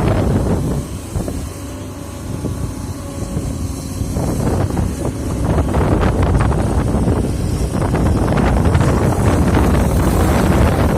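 Excavator's diesel engine running on a construction site, getting louder and busier about four seconds in, with wind buffeting the microphone.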